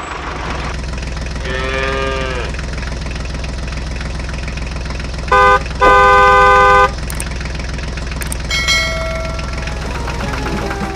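Tractor engine running steadily, with a cow mooing about two seconds in. Near the middle a vehicle horn honks twice, a short beep then a longer blast, the loudest sounds here.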